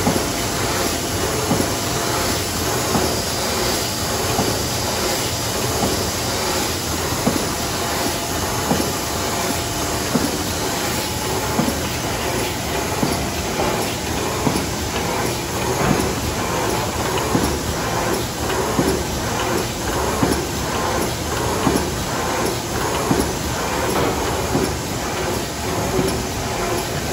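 Screen printing machine running its print cycle, a steady mechanical hum with a repeating series of clacks and knocks.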